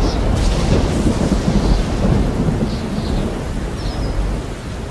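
Thunder rumbling over falling rain. The rumble slowly dies away.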